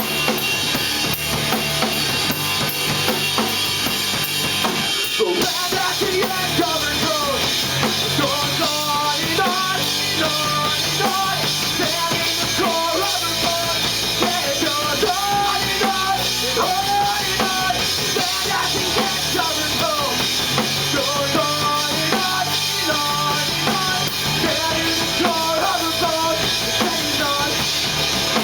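A three-piece rock band playing live: a drum kit with bass drum and snare hits driving a steady beat under bass and guitar, loud and continuous.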